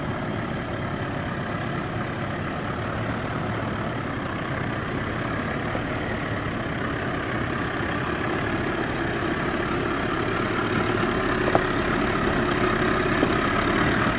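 Toyota LandCruiser 70-series ute's engine running under load as it crawls up a rocky slope with front and rear diff locks engaged. The sound is steady and grows slowly louder as the vehicle climbs, with a single short click about two-thirds of the way through.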